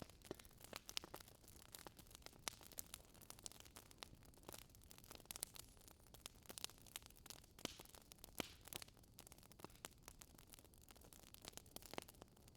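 Faint crackling of a wood fire in a fireplace: irregular sharp snaps and pops over a low hiss.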